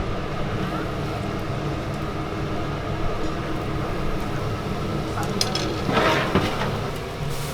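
Busy restaurant kitchen ambience: a steady hum and rumble with indistinct background voices and a few clinks, and a louder noisy burst about six seconds in.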